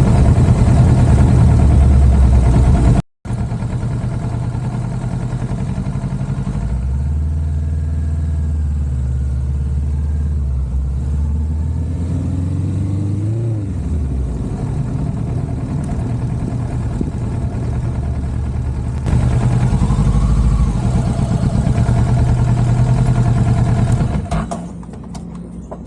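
Parallel-twin motorcycle engine running under way, with a brief cut-out about three seconds in. About halfway through the engine note rises and then drops sharply, as the bike accelerates and shifts gear. The engine goes quieter near the end.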